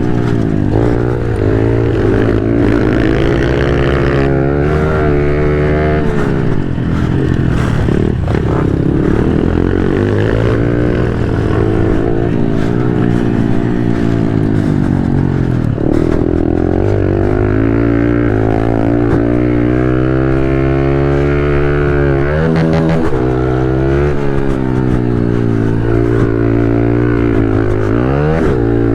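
A 110 cc pit bike engine racing, heard from on board, loud throughout: the revs climb and drop again and again as it shifts up and eases off for corners.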